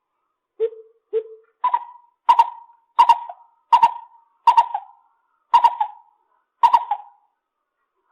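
Lesser coucal calling: two short lower notes, then a series of about seven louder, higher notes repeated roughly every three quarters of a second.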